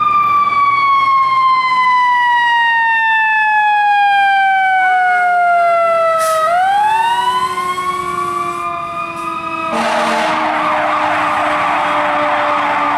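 Fire truck siren sounding a long, slowly falling wail for about six seconds, then winding back up in pitch. About ten seconds in, an ambulance siren cuts in with a dense, rapid warble over it.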